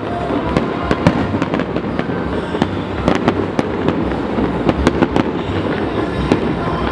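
Aerial fireworks going off: many sharp cracks and pops in quick, irregular succession over a steady rumble, from shells bursting and crackling stars.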